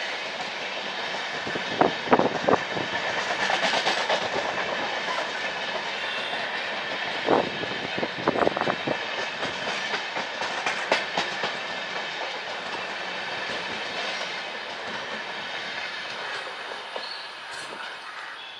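Train running along the track: a steady rumble and hiss, with sharp clicks of wheels striking rail joints in small clusters, fading gradually near the end.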